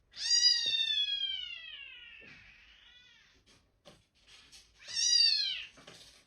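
A cat meowing: one long, drawn-out meow that falls in pitch and fades, a faint short call about three seconds in, then a second, shorter meow about five seconds in.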